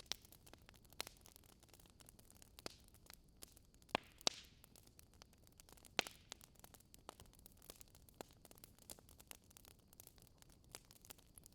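Wood fire in a fireplace crackling softly, with irregular sharp pops over a faint hiss, the loudest pops about four and six seconds in.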